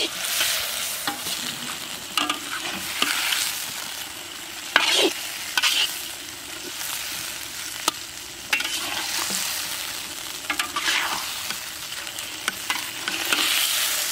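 Chopped tomatoes and onions sizzling in hot oil in a large iron kadai, with a long metal spatula scraping and turning them in short strokes every second or two.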